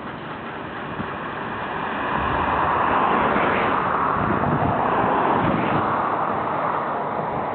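Heavy machinery running at a wood-chip truck unloading station, a steady noisy sound that grows louder about two seconds in and holds.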